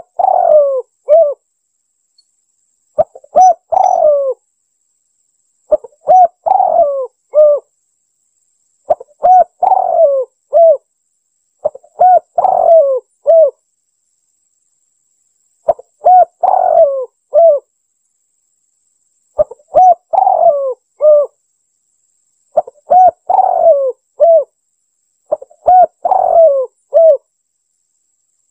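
Spotted dove cooing: a repeated phrase of three or four notes, one about every three seconds, with silence between the phrases.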